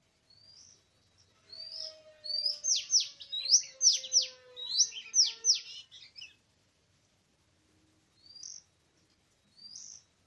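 Oriental magpie-robin singing: a few short rising whistles, then a quick run of loud sweeping notes from about two to five and a half seconds in, then two more single whistles near the end.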